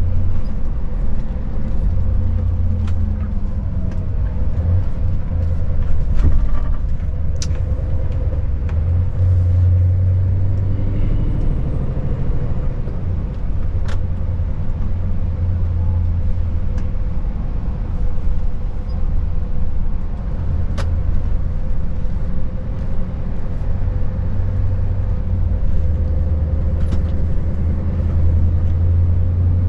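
Scania S580 truck's V8 diesel engine running steadily on the move, a low drone with tyre and road noise, broken by a few sharp clicks.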